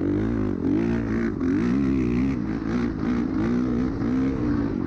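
An off-road vehicle's engine revving hard on the dunes, its pitch rising and falling about once a second as the throttle works on and off.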